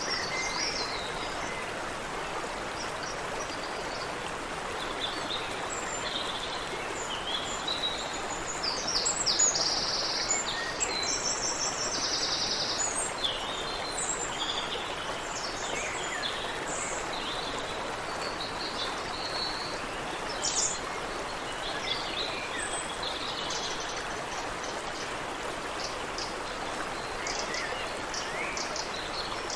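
Steady rush of water running in a small stream, with several songbirds calling and singing over it. A burst of fast trilled song comes about a third of the way in, and short chirps and whistles keep coming after it.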